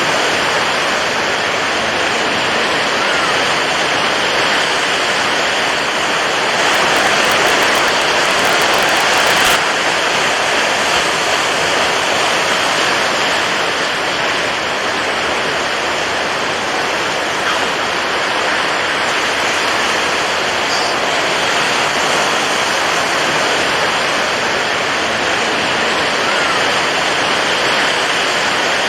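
Continuous rushing water, a steady full hiss without breaks, with a slightly louder stretch that cuts off suddenly about ten seconds in.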